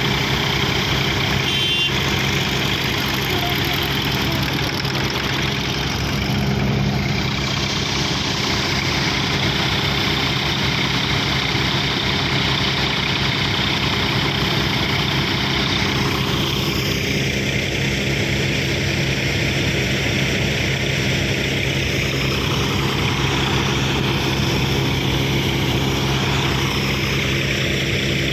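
John Deere tractor's diesel engine running steadily at a constant speed.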